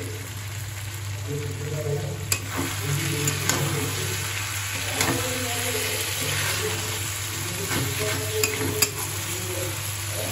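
Chicken pieces sizzling in oil in a steel kadai while a steel spatula stirs them, scraping and clicking against the pan a few times.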